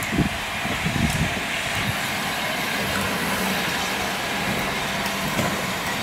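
Steam-hauled passenger train rolling slowly past, the coaches' wheels and bogies making a steady rumble on the track, with a few low thumps in about the first second.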